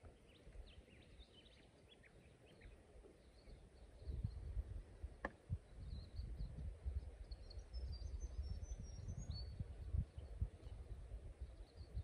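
Wild birds calling: scattered short high chirps, then a quick run of high notes stepping downward a little past the middle. An uneven low rumble on the microphone sets in about four seconds in and is the loudest sound, with one sharp click just after five seconds.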